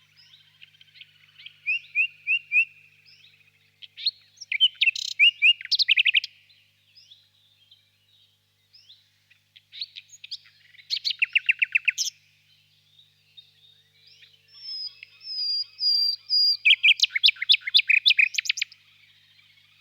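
Nightingale singing in separate phrases of rapid repeated notes and fast trills, with short pauses between them. About three-quarters of the way through comes a run of clear whistled notes, then a final rapid series.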